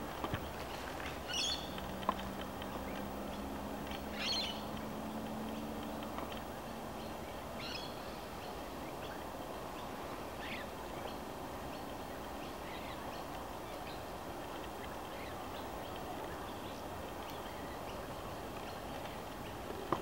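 Wild birds giving a few short, high calls spaced a few seconds apart, mostly in the first half, over a steady outdoor background, with a faint low hum during the first several seconds.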